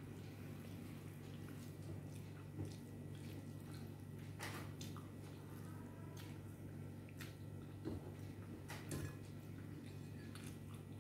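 A person eating rice and fish curry with the fingers: faint chewing, with a few short mouth smacks and clicks scattered through it over a steady low hum.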